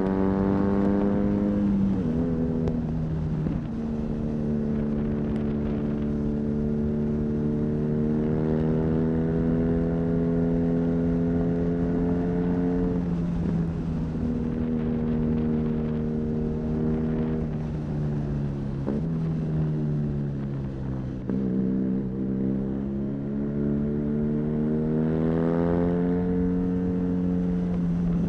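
BMW R nineT's air/oil-cooled boxer twin, fitted with an Arrow high-mounted exhaust, pulling on the road under load. The engine note drops suddenly at gear changes about two seconds in and again around thirteen and nineteen seconds in, and climbs sharply near the end, with wind and road noise underneath.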